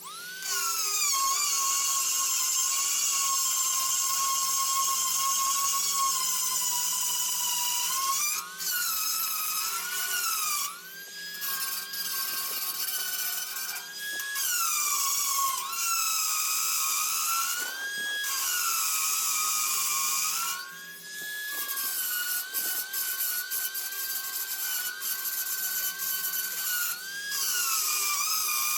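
High-speed handheld grinder blending a weld on a steel dirt bike frame. Its high whine starts abruptly, then its pitch repeatedly sags and recovers as the tool is pressed against the metal and eased off, with a few brief breaks.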